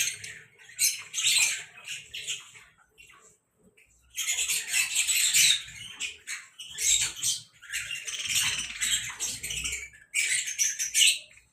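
Hand-fed bird chicks begging at feeding time: raspy, high-pitched calls that come in bursts of a second or two, with short pauses between them.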